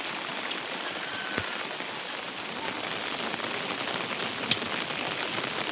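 Heavy rain falling steadily on surfaces, a dense even patter with scattered louder drips, the sharpest about four and a half seconds in.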